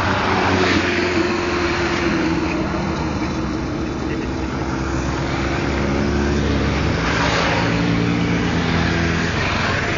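Several motorcycle engines running at once as a big group of motorbikes rides by, their pitches overlapping and shifting up and down.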